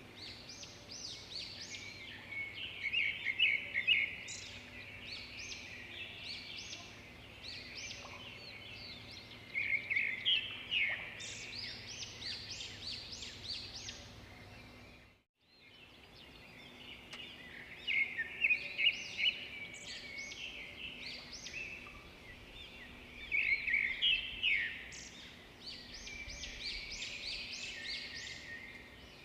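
Many small birds chirping and trilling in quick bursts over a faint steady background, with the sound dropping out briefly about halfway through.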